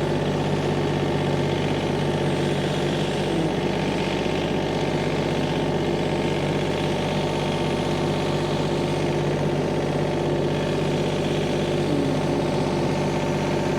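Engine running at a steady idle: a constant, unchanging hum with no revving.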